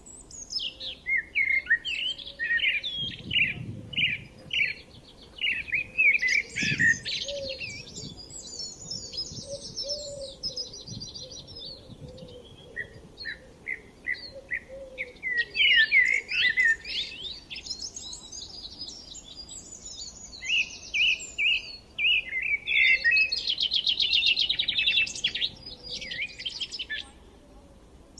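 Songbirds chirping and singing: short repeated notes and fast trills, several birds at once, pausing briefly near the middle.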